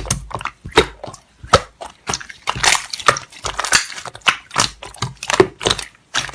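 Slime being squished and pressed by hand, giving an irregular run of wet, crackling pops and squelches several times a second.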